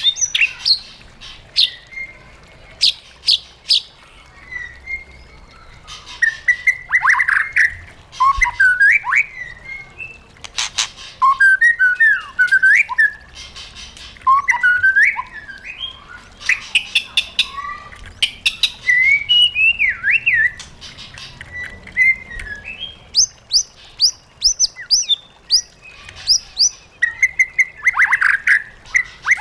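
White-rumped shama singing a long, varied song: whistled phrases that glide up and down, broken by sharp clicking and chattering notes. About two-thirds of the way through comes a quick run of short high notes.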